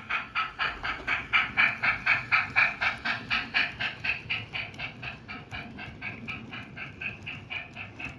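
Model steam locomotive on a model railway chuffing in an even beat of about four chuffs a second, loudest around two to three seconds in and then softer.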